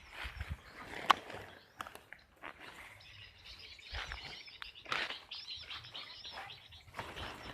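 Bar-winged prinia (ciblek) chirping and twittering in quick high phrases, with a sharp click about a second in.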